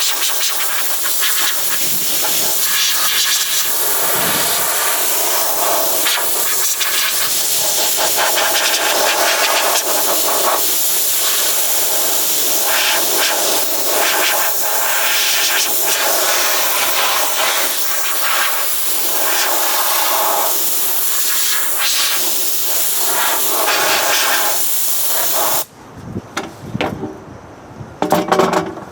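Compressed-air blow gun hissing steadily as it blows rinse water off an acid-treated steel tractor fender. The air is cut off and triggered again in short spurts a few times near the end.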